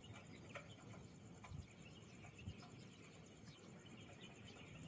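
Near silence, with a few faint clicks and a faint high steady hiss.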